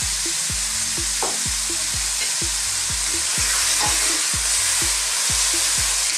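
Sardines, onion and tomato sizzling in hot oil in a wok, with a wooden spatula stirring through them from about halfway in. Background music with a steady low beat, about two a second, runs underneath.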